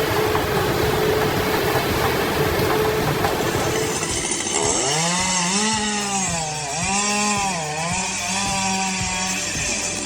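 Two-stroke chainsaw engine running hard as it cuts wood. About halfway in its pitch starts to dip and recover over and over as the chain loads in the cut and frees again.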